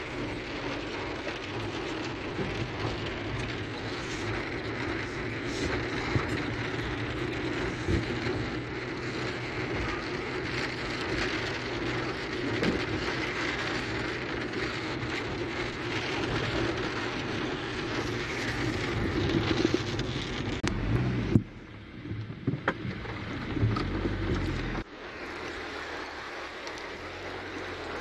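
Heavy rain on a car's roof and windshield, heard from inside the moving car, with the car's road noise underneath. The sound drops suddenly about three quarters of the way through and again a few seconds later.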